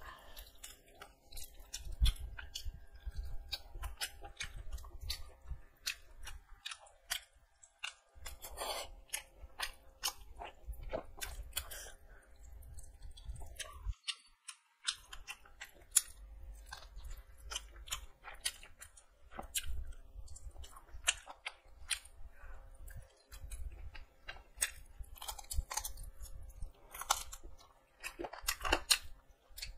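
A person chewing and biting into chicken, with many short wet clicks and smacks of the mouth.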